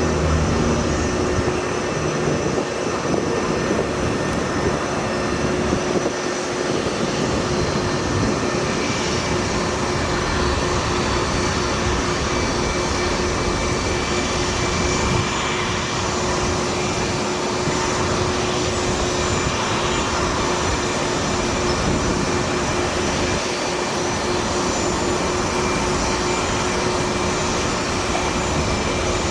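Boeing 787-9 Dreamliner's jet engines running steadily: a constant rushing noise with a held whine, little change in level throughout.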